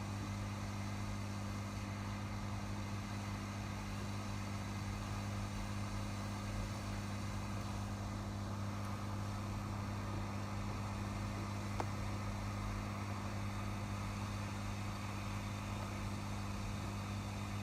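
Steady electrical hum of running workbench equipment, a constant low buzz with no change in pitch. A single faint click comes about twelve seconds in.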